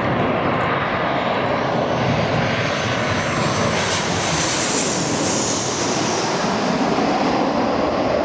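Airliner passing low overhead on landing approach: its engine noise swells to a peak with a high whine about five seconds in, then drops in pitch as it moves away.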